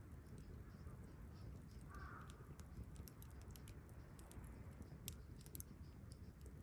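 Wood campfire crackling softly, with scattered sharp pops that grow more frequent in the second half. A single short bird call sounds about two seconds in.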